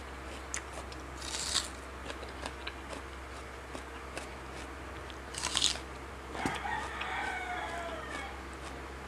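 Crunchy bites and chewing close to the microphone, twice: about a second in and again past five seconds. A rooster then crows once, a call of nearly two seconds that falls in pitch at the end.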